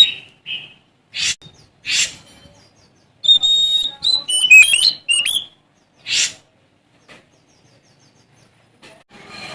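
Oriental magpie-robin (Sumatran kacer) singing: short harsh, noisy calls broken by a quick run of clear whistled notes that slide up and down in pitch about three to five seconds in, then a pause of a couple of seconds.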